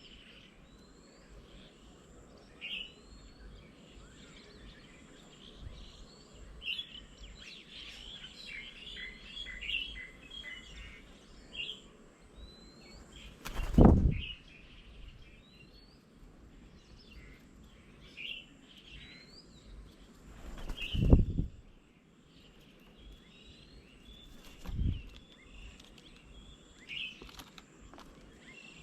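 Birds at a garden bird table calling with short chirps and rising whistles, in a busy flurry about a quarter of the way in and scattered otherwise, over a faint steady high tone. Three brief low thumps, the loudest sounds, come a little before halfway, about three-quarters in and again shortly after.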